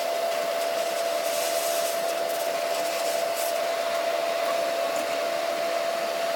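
A fan or small motor running steadily, a continuous whir with a constant hum.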